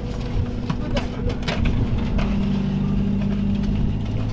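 An engine running steadily, its note shifting slightly about two seconds in, with a scatter of sharp clicks and knocks in the first half.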